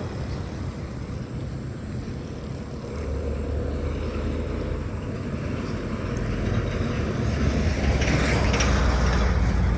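Road traffic going by: a steady low rumble of vehicles, growing louder in the last few seconds as one passes close.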